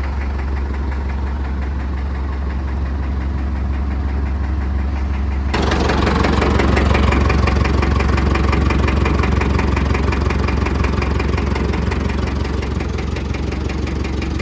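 Heavy truck's diesel engine running steadily. About five and a half seconds in, the sound shifts abruptly to a louder, brighter run with a rapid, even firing pulse.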